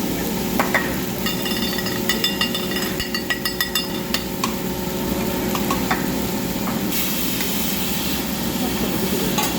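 Metal utensils clinking rapidly, a dozen or so ringing metallic clicks over about three seconds, over a steady sizzling hiss from the hibachi grill.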